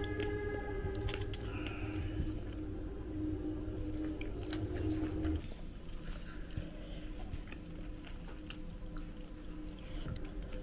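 Someone biting and chewing crispy fried chicken wings, with small crunches. Soft background music stops about halfway through.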